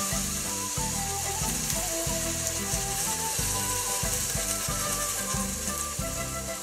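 Floured chicken chunks frying in hot vegetable oil in a large pot, a steady sizzle.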